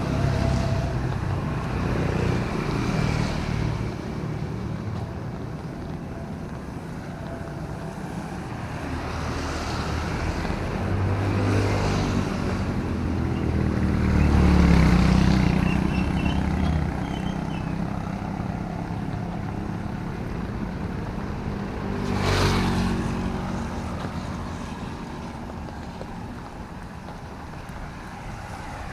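Road traffic passing on a rain-wet city street: steady engine rumble that swells as vehicles go by, with one vehicle passing close and loud about two-thirds of the way through.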